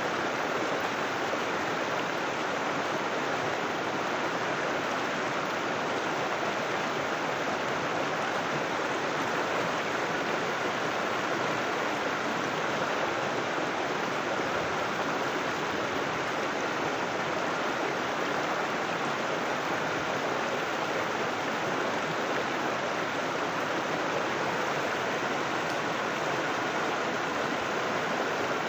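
River water flowing and rushing over rocks, a steady even rush with no change.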